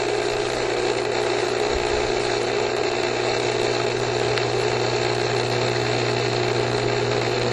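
Swimming pool pump running steadily, a constant hum with water moving through it.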